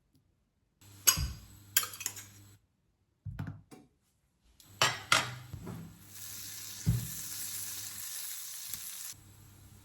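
A few clinks and knocks of utensils and cookware, then food sizzling in a hot pan for about three seconds, cut off suddenly.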